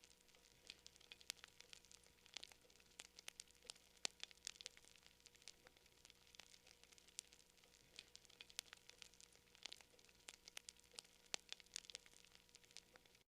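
Wood campfire crackling: quiet, irregular sharp pops and snaps, several a second, over a faint hiss. Near the end the sound cuts out completely for about half a second.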